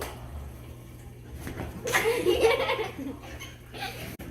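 A person laughing in one short burst about two seconds in.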